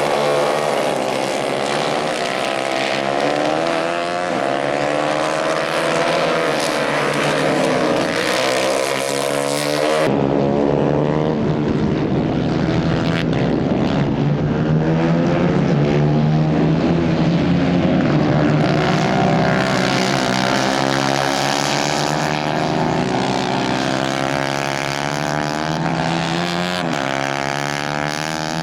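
Engines of several 150 cc Kayak-class racing karts running hard, their pitches rising and falling and overlapping as they race. The sound changes abruptly about ten seconds in.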